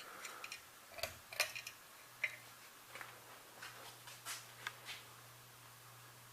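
42-inch Alaska ceiling fan running on medium: a faint steady motor hum that comes in about a second in, with scattered light ticks and clicks.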